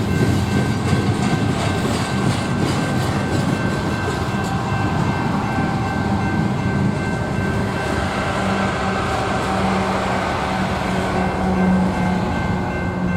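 Freight train rolling past: a steady, loud rumble of wheels on rail, with thin steady high tones over it.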